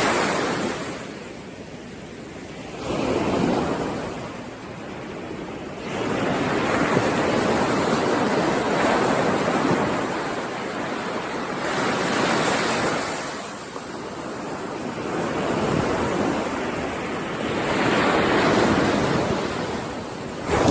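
Ocean surf: waves breaking and washing ashore, the rush of water swelling and fading every few seconds.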